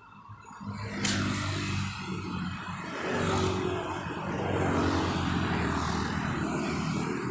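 Motor vehicle engine running close by on the road, coming in suddenly about a second in and holding steady with a low hum.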